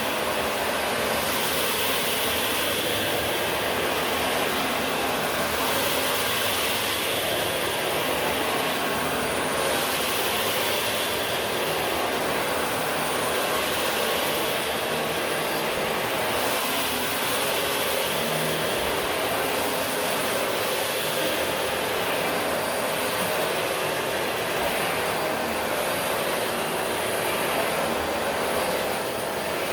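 Vacuum cleaner running continuously, a steady whooshing hum whose hiss swells and fades slightly every few seconds.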